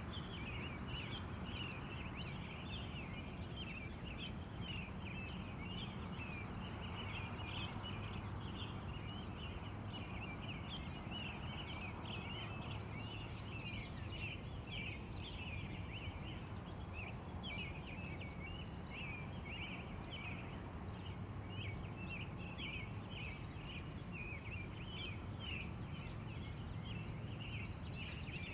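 Early-morning wild birds chirping continuously, with a steady high insect trill and a low steady hum of background noise underneath. Three times a brief, higher, fast trill cuts through.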